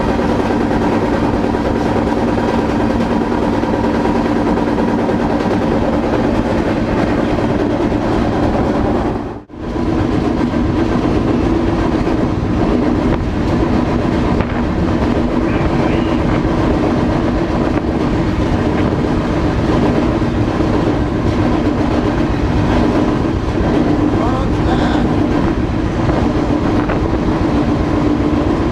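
Freight train rolling, heard from aboard: a steady loud rumble and rattle of the cars with a steady drone. About nine seconds in it drops out sharply for a moment, then resumes.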